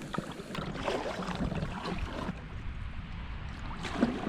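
Kayak paddle strokes dipping and splashing in calm water, with wind rumbling on the microphone.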